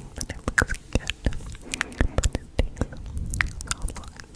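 Close-miked ASMR mouth sounds: a dense, irregular run of sharp wet clicks and smacks, with soft breathy whisper-like noise between them.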